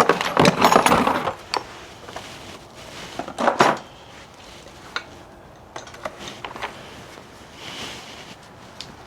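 Metal tools and parts clinking and clattering as they are handled. The clatter is loudest in the first second and again briefly about three and a half seconds in, with scattered lighter clicks after.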